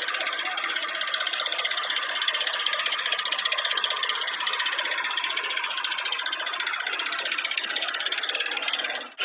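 A vehicle's motor running steadily with a fast rattle, cut off abruptly near the end.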